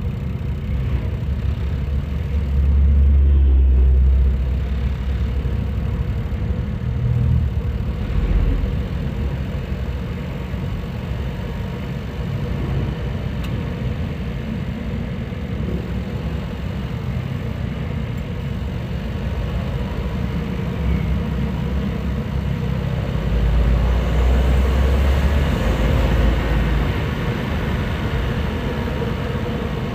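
Daihatsu Rocky's 1.0-litre turbocharged three-cylinder engine, heard through a microphone in the engine bay, running under load as the car picks up speed. The engine note swells louder about three seconds in and again for a few seconds near the end.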